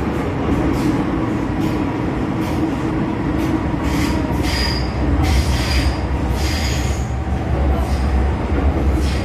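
MTR Kwun Tong Line M-Train electric multiple unit running on the track: a steady low rumble with hissing rushes of wheel and rail noise about once a second, and a few short high squeals around the middle.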